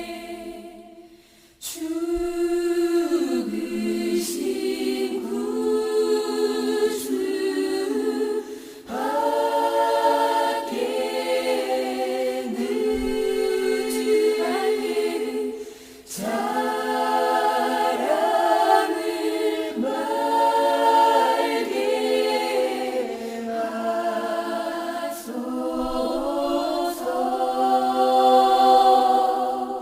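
Background music: a choir singing in sustained chords, in long phrases with short breaks between them.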